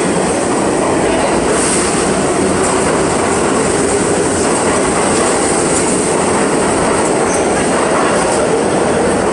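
Subway train running into a station: a loud, steady noise of the train on the rails that neither rises nor falls.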